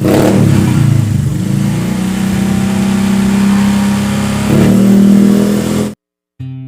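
Vehicle engine running through a hollowed-out (bobokan) exhaust with a deep, bassy note, the revs rising briefly a little past four seconds in. It cuts off abruptly about six seconds in, and acoustic guitar music starts just before the end.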